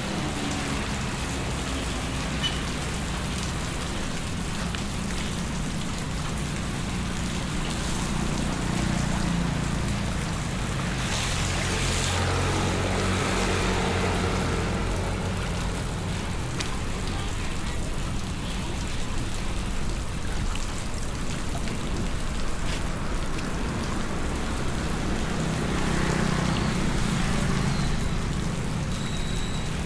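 Heavy rain falling steadily, with a low vehicle rumble that swells about a third of the way in and again near the end.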